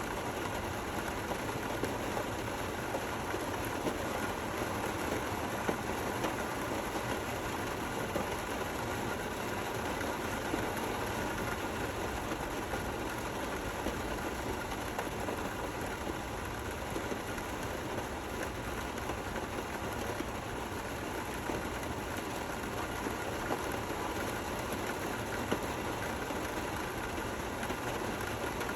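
Steady gentle rain, an even hiss with a few slightly louder drops here and there.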